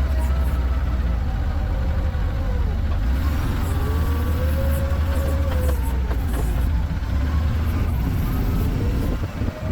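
Steady low vehicle engine rumble, with a faint whine that rises and falls in pitch.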